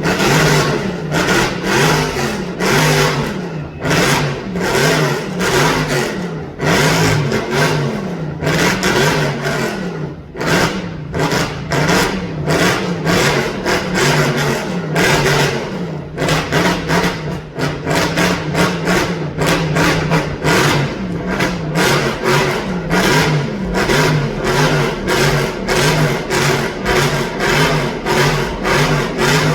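Modified car engine revved hard over and over in quick blips for a sound-level reading, its pitch rising and falling.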